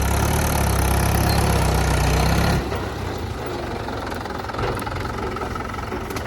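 Diesel tractor engine running, louder for the first two and a half seconds, then dropping off to a quieter, steadier idle.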